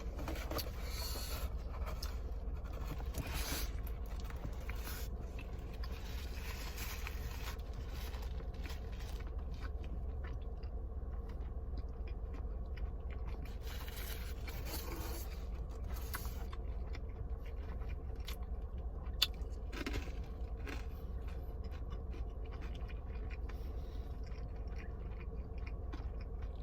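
Close-up chewing and crunching of a crispy fried chicken sandwich, in irregular bursts, with scraping and rustling from handling the food, over a steady low hum.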